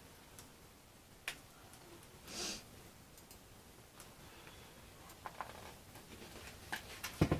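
Scattered small clicks and taps of hand work on balsa model-airplane parts, with a short hissing rustle about two and a half seconds in and a dull thump near the end.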